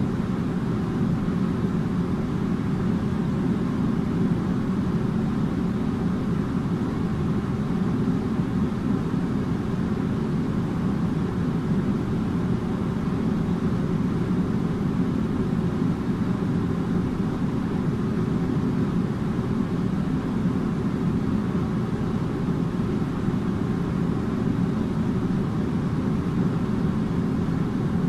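Air conditioner running steadily: an even, low hum and rush of air that does not change.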